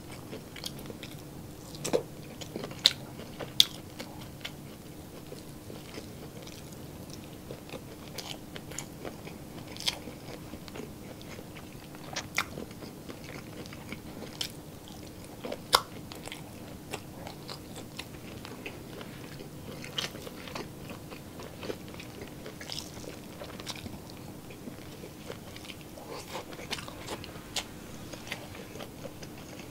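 Close-miked eating sounds: chewing and biting into longganisa sausage and fried rice, with scattered sharp wet mouth clicks and smacks over a faint steady hum.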